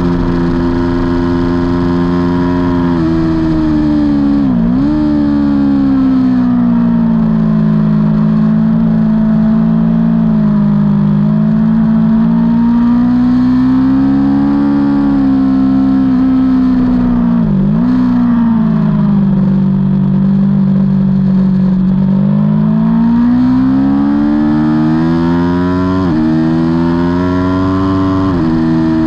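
Aprilia Tuono V4's V4 engine heard on board at race pace, held at high revs. Its pitch sags slowly and climbs again, with two brief sharp dips about 5 s and 18 s in and quick steps near the end.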